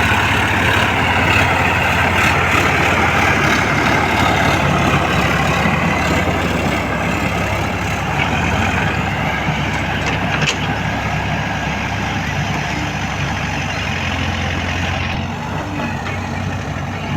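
Heavy diesel engines running steadily: a JCB 3DX backhoe loader working while loading mud, with a tractor's diesel engine alongside. The sound eases off a little near the end.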